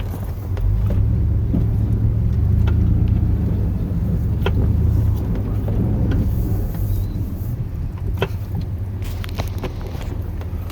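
Cab-interior rumble of a Chevrolet plow truck's 8.1-litre Vortec big-block V8 driving under load, swelling about a second in and easing off after about five seconds, with scattered light clicks and knocks.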